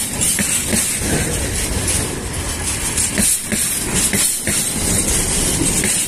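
Freight train wagons loaded with tank containers rolling past at close range: a steady rumble and hiss from the wheels on the rails, with occasional clacks as the wheels cross rail joints.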